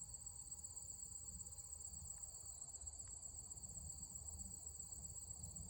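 Insect chorus in the woods: a steady, faint, high-pitched trill with no pause, over a faint low rumble.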